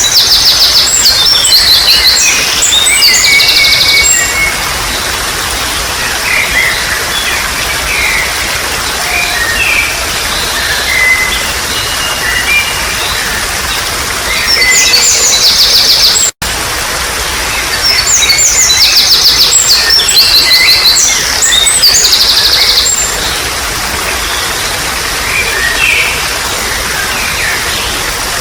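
Songbirds singing in fast, high trills and chirps over a steady trickle of running water; the bright song comes in spells of a few seconds, with scattered quieter calls between. The sound drops out for a split second a little past halfway.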